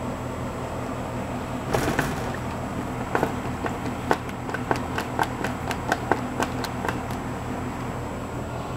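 A run of sharp clicks and light knocks from hand-tool work on a wooden gate's hardware, irregular at roughly two a second, over a steady low hum.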